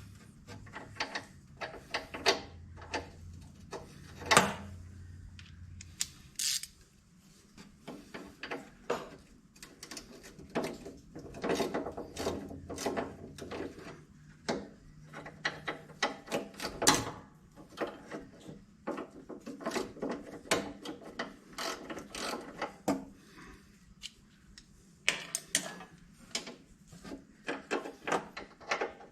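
Hand ratchet wrench clicking in quick runs with short pauses while nuts are being turned, with a few louder metal knocks.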